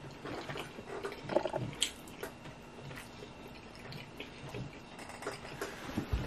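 Close-up wet chewing and mouth sounds of a person eating rotisserie chicken, with scattered small clicks as the meat is pulled apart by hand and plastic fork, and a soft thump near the end.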